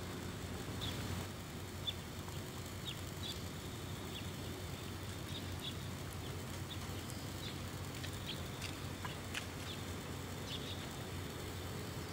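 Outdoor ambience: faint, short, high bird chirps scattered irregularly over a steady low background rumble.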